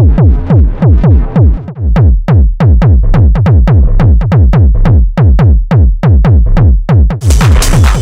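Raw techno beat from a drum machine: a steady run of kicks, each dropping sharply in pitch into a deep boom, a little over two a second. A bright, hissing hi-hat layer comes in near the end.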